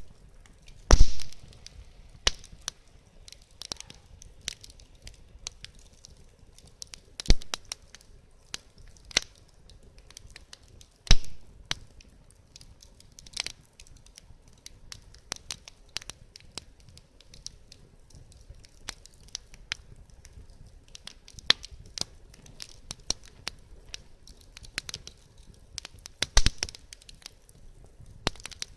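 Wood fire crackling in a fire pit, with irregular sharp pops and snaps and a few louder cracks from the burning wood.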